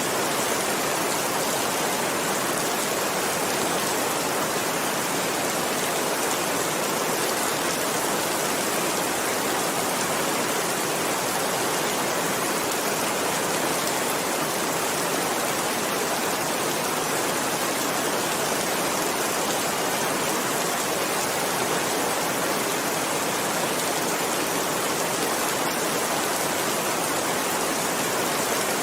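Heavy rain falling, a steady, even hiss with no let-up or separate drops standing out.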